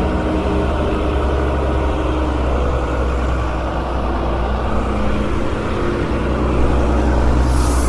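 Tow truck's diesel engine running steadily, with a brief hiss right near the end.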